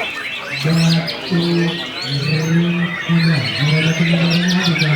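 Many caged songbirds, white-rumped shamas among them, singing at once: a dense tangle of fast chirps, trills and whistled glides. A low steady tone starts and stops repeatedly underneath.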